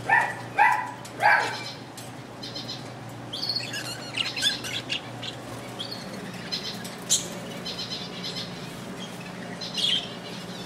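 A flock of parakeets chirping and chattering, with many short, high chirps and trills. Three loud squawks come in the first second and a half.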